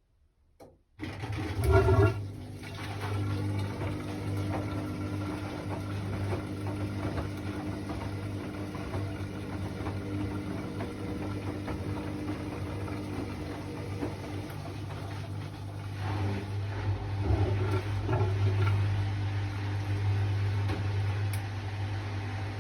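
Hoover washing machine starting up again about a second in after a pause in its wash cycle: a steady motor hum with water sloshing in the drum, loudest right after it starts.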